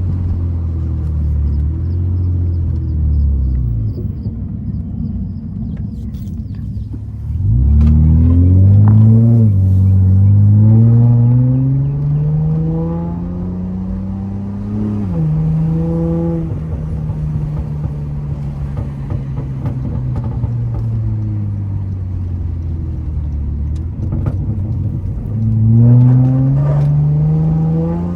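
Honda Accord V6 engine heard from the driver's seat. It slows to a low steady idle, then accelerates hard about a quarter of the way in, its pitch rising steadily before dropping suddenly at a gear change. It cruises for several seconds and accelerates again near the end.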